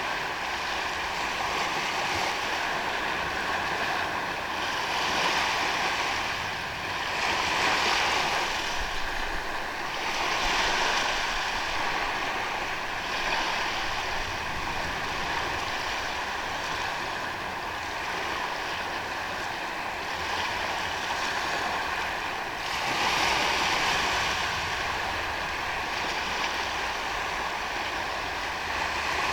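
Ocean surf breaking and washing onto a beach, a steady rush that swells and falls back every few seconds.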